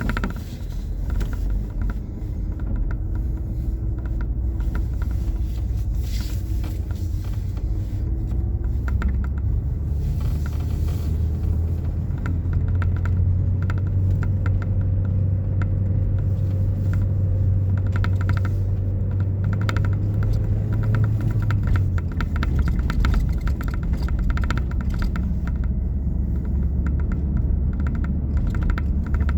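Steady low rumble of a running vehicle, its low hum dropping a little about three-quarters of the way through, with a light crackle of small clicks throughout.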